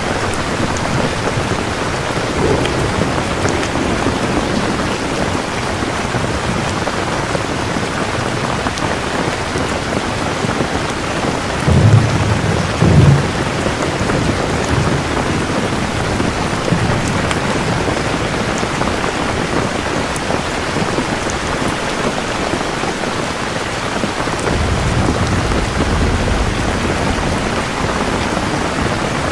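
Steady heavy rain, with thunder: two loud low claps close together about halfway through, and a longer rolling rumble near the end.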